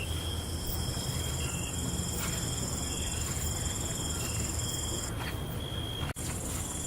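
Crickets chirping in steady, continuous high trills over a low background rumble. The sound cuts out for an instant about six seconds in.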